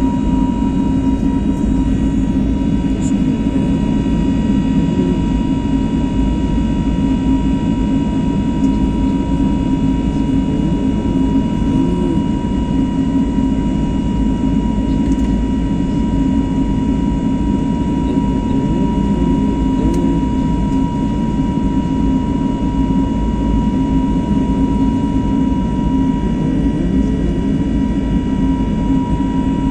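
Airbus A321neo jet engines heard from inside the passenger cabin: a loud, steady drone with several steady whining tones above it, the strongest a high whine.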